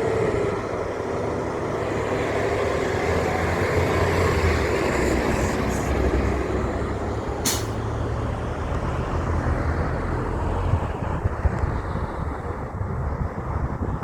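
Heavy truck's diesel engine running loudly, with a short sharp air hiss about seven and a half seconds in, typical of an air brake releasing. The engine sound eases off near the end.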